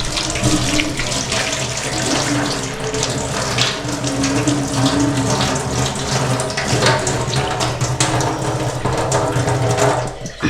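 Water running steadily from a tap, then shut off near the end.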